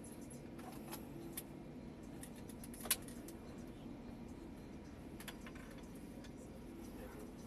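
Steady hum of a Eurotunnel Le Shuttle train running, heard from inside a coach carried on board, with scattered light clicks and rattles; the sharpest comes about three seconds in.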